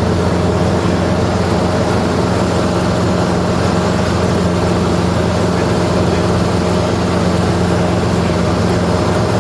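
Helicopter running steadily at constant speed, with an even engine and rotor drone that holds its pitch.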